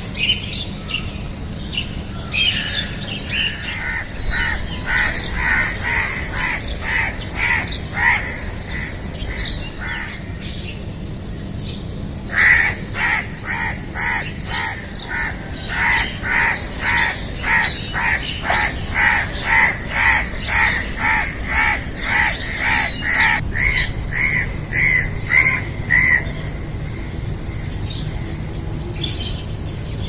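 Birds calling, with one bird repeating a short call about twice a second in two long runs. The second run starts suddenly and louder about twelve seconds in, with fainter chirps from other birds around it.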